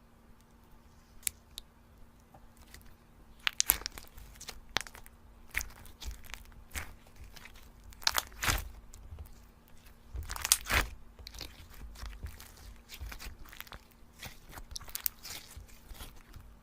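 Slime being squeezed and played with, giving irregular crunching and crackling clicks that start about three seconds in, loudest twice in the middle.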